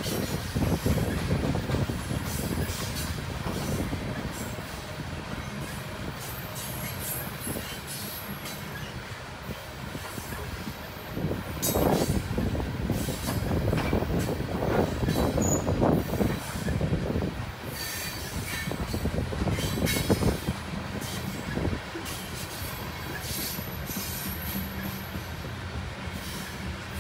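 Coal hopper cars of a long freight train rolling past: a steady rumble of steel wheels on rail with irregular clanks and knocks, and now and then a thin, high wheel squeal. The rumble and clanking grow louder in the middle stretch.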